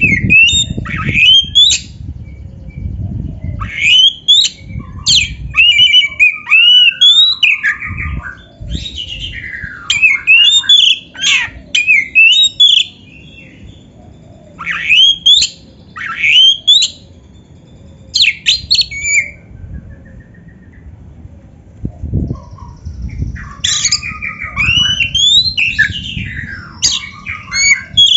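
Oriental magpie-robin (kacer) singing: loud phrases of varied rising and falling whistles mixed with harsh squawky notes, broken by short pauses, with a sparser stretch near the middle.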